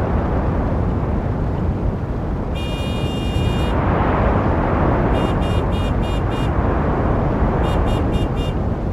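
Street traffic: a steady rumble of passing cars, one swelling past about four seconds in. A car horn sounds one long honk about two and a half seconds in, then two quick runs of short toots, about five and then four.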